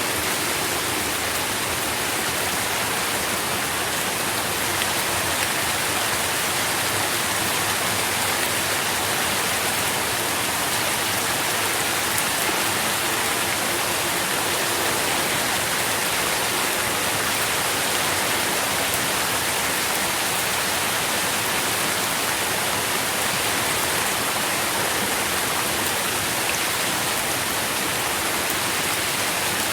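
Steady rainfall with drops pattering on leaves and the ground, an even hiss that holds at the same level throughout.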